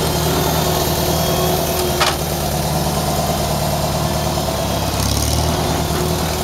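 1975 Farmall 140 tractor's four-cylinder gasoline engine running steadily, with a single sharp click about two seconds in.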